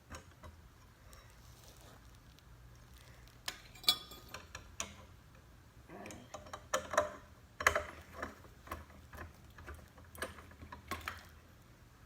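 Scattered small clicks and light metallic taps, irregular and without any motor hum, as a screw is worked by hand into the ceiling fan's mounting bracket and motor housing.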